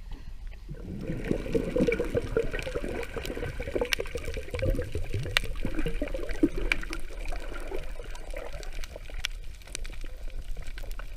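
Water gurgling and sloshing, starting about a second in, with scattered sharp clicks.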